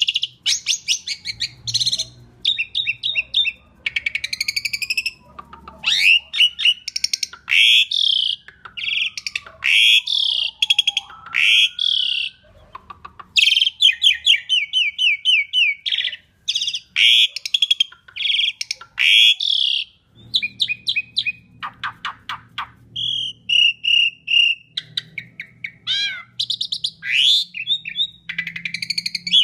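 Asian pied starling (jalak suren) singing a loud, varied song: rapid chattering trills, sharp clicks and whistled notes gliding up and down, in quick runs with a couple of short pauses.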